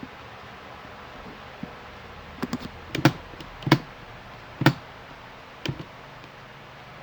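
Scattered keystrokes on a computer keyboard: a few sharp taps in a quick cluster, then single taps about a second apart.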